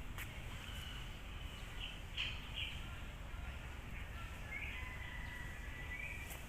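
Birds chirping in short calls, with one longer drawn-out call about four and a half to six seconds in, over a steady low rumble of background noise.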